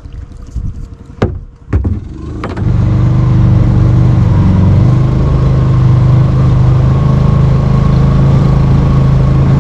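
Small engine of a Mokai motorized kayak starting after a couple of sharp knocks, then running steadily and loudly.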